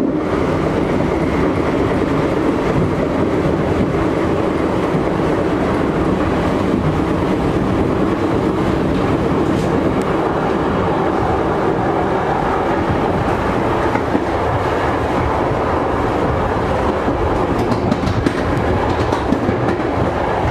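Steady rumble of a moving passenger train, heard from inside the coach coupled behind an EP07 electric locomotive, with wheels running over the rails.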